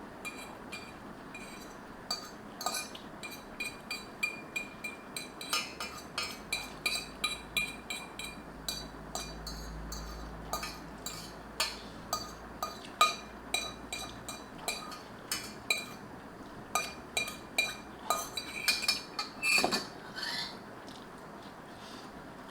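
An eating utensil repeatedly clinking and tapping against a bowl, about two or three light clinks a second, each with a brief ringing tone, while spicy ramen noodles are gathered up to eat.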